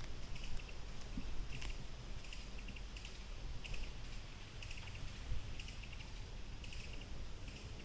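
Outdoor garden ambience during a walk: a low rumble underneath, with short rapid clicking chirps repeating about once or twice a second.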